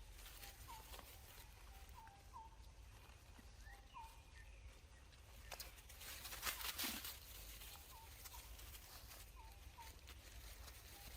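Faint animal calls: short rising chirps repeated irregularly, a second or two apart. A louder rustling burst comes about two thirds of the way through.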